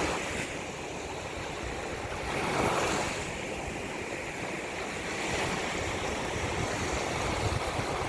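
Ocean waves breaking and washing in, with wind blowing. A wave surges in about two and a half seconds in, and wind gusts rumble on the microphone near the end.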